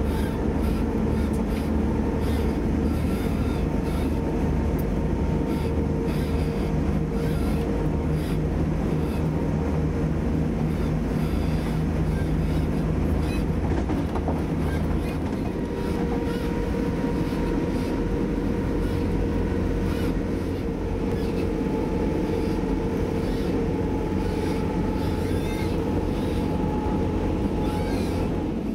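Inside a Class 175 diesel multiple unit at speed: the steady rumble of the running train on the rails, with a droning tone from the drivetrain that shifts slightly in pitch about halfway through and faint light clicks over the top.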